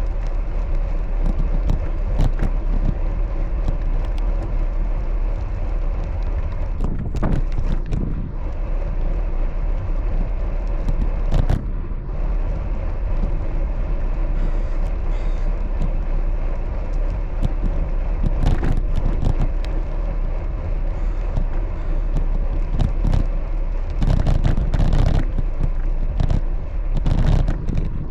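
Steady rumbling road and wind noise from riding a bicycle, strongest in the low end, with scattered short knocks and clicks that come more often near the end.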